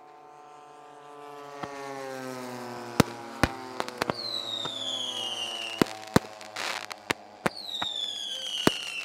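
Fireworks going off in a run of sharp bangs, with two high whistles that each slide down in pitch. Under them, an engine tone slides slowly down in pitch, as from an aircraft passing.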